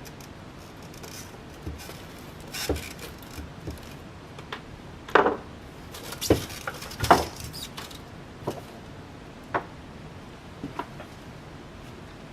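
Scattered light metallic clicks and knocks from handling small hardware and parts during a ceiling fan installation, irregular and unhurried, with the loudest few in the middle.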